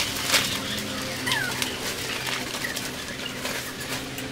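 Birds calling: a few short gliding chirps over a steady low hum, with a light knock about half a second in.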